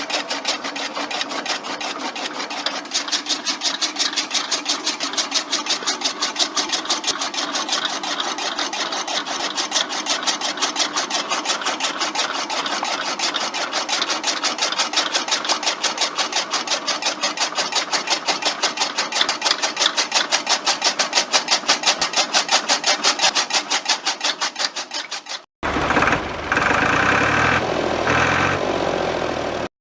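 A small motor-driven model machine running with a rapid, even clatter. It cuts off suddenly near the end and gives way to a different sound.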